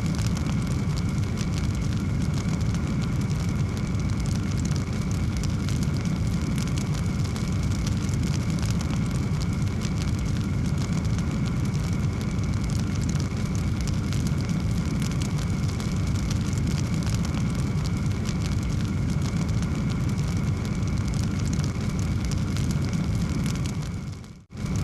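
Wood fire crackling, dense small pops over a steady low rumble of flame. Near the end the sound fades out to near silence for a moment and returns.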